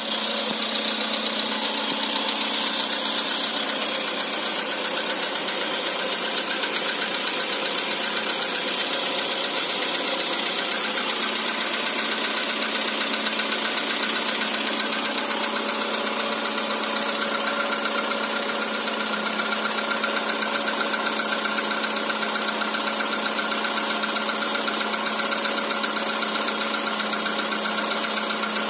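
Skoda Roomster's CFNA 1.6-litre four-cylinder petrol engine idling steadily while cold, with the knock it makes when cold. It runs a little louder for the first few seconds, then settles.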